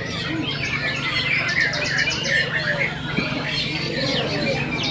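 Many caged songbirds, white-rumped shamas among them, singing at once: a dense tangle of overlapping whistles and quick chirps, over a steady low hum.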